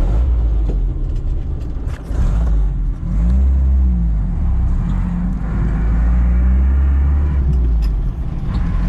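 Car engine running with a deep, steady rumble, its pitch rising and falling a few seconds in as the car pulls away and changes speed.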